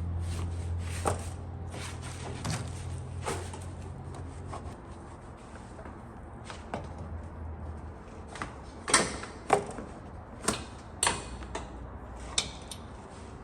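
Scattered knocks, clicks and rubbing of parts or tools being handled in a workshop, with several sharper knocks in the second half. A low steady hum fades out over the first few seconds.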